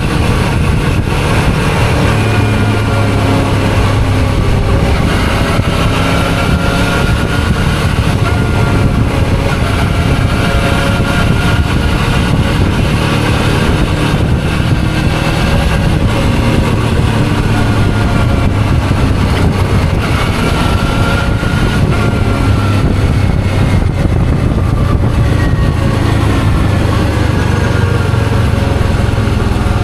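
Suzuki V-Strom 650's V-twin engine running under way, its pitch slowly rising and falling with speed, over a steady low rumble.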